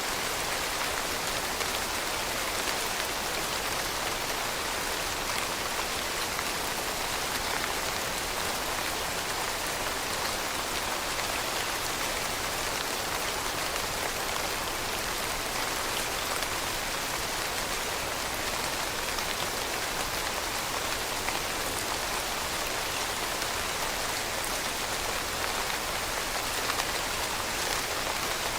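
Steady rain falling, a dense even hiss with individual drops pattering on a surface.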